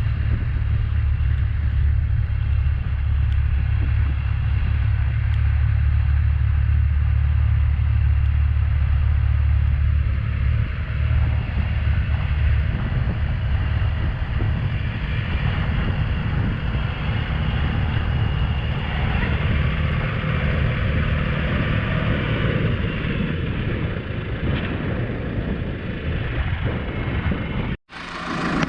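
Tractor engine running steadily with a deep rumble that eases about twelve seconds in. The sound cuts out abruptly near the end.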